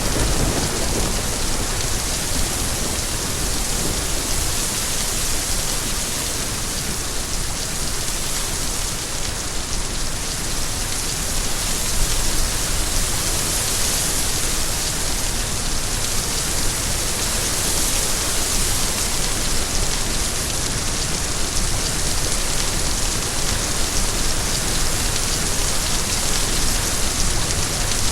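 Steady rain falling, an even hiss of drops with most of its energy in the high range. A low thunder rumble dies away about a second in.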